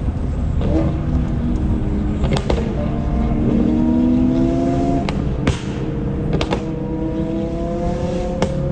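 Modified McLaren 570S's twin-turbo V8 through a loud aftermarket exhaust, pulling with a slowly climbing engine note that drops about five seconds in and then climbs again. Sharp exhaust pops and crackles come a few at a time, clustered around the drop and again near the end.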